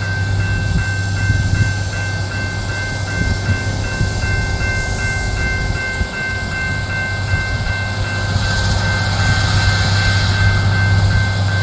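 Loram SBC-20 shoulder ballast cleaner at work: a steady low engine drone under a constant high whine, with a hissing rush that swells about eight seconds in.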